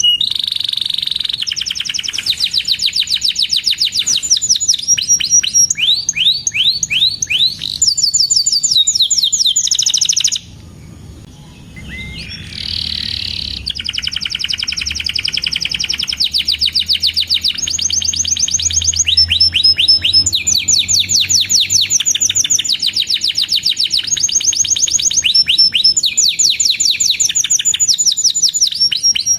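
Domestic canary singing fast trills: long runs of rapid, repeated high chirps in phrases of a few seconds each, with a short pause about ten seconds in.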